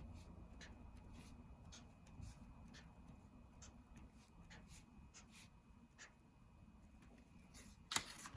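Faint, scattered strokes of a colouring tool on paper as patterns are filled in, with a sharper click near the end.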